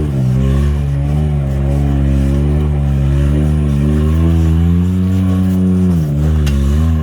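Can-Am Maverick X3 side-by-side engine running under load on a rough trail, its pitch rising and falling with the throttle, with a brief drop about six seconds in as the throttle is lifted.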